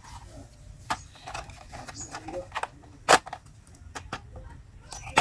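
Toy motorbike wheel being fitted by hand: small clicks and knocks of the parts being handled, with a sharper knock about a second in and the loudest about three seconds in.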